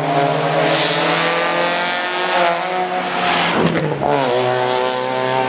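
Rally car engine running hard at high revs. About four seconds in the pitch breaks off briefly, as at a lift or gear change, then holds steady again.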